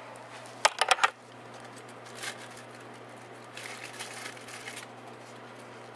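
Handling noise as small objects are picked up and moved: a quick run of clicks and knocks about a second in, a single click later, then soft rustling, over a steady low hum.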